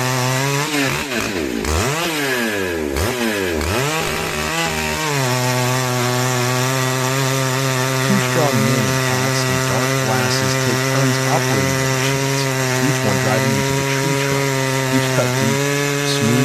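Large two-stroke chainsaw revving up and down, then running flat out at a steady high pitch while cutting through the wood from about five seconds in.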